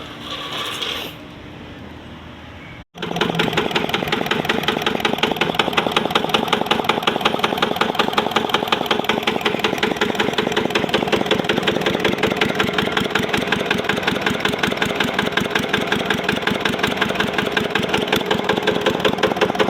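A 20 hp engine running steadily at a constant speed, with a rapid, even beat of firing strokes; it comes in abruptly about 3 seconds in after a short quieter stretch.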